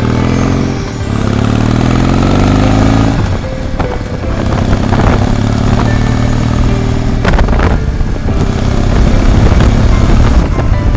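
A vehicle engine running, its pitch rising between about one and three seconds in as it speeds up, then running more steadily, with a few sharp clicks later on.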